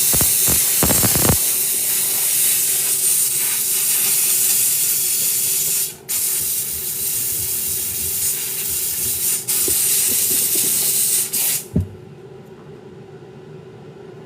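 Steady loud hiss of a pressurised spray jet, cut off briefly about six seconds in and stopping for good about two seconds before the end.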